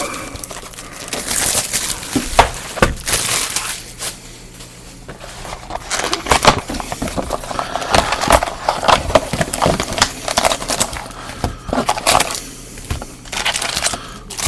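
Football trading card packaging being opened and handled: crinkling wrappers and crackling, tearing rustles in irregular bursts.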